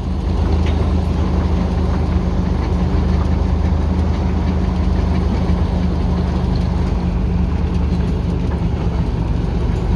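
The YaMZ-236 V6 diesel engine of a TU6A narrow-gauge locomotive running steadily as the locomotive moves, an even low drone with no change in pitch.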